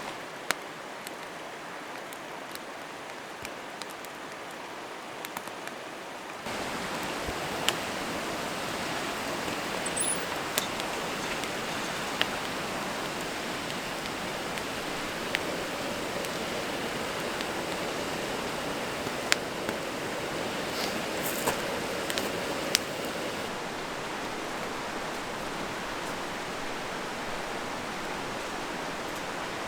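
Mountain stream flowing: a steady rush of water, louder after about six seconds, with a few scattered sharp clicks.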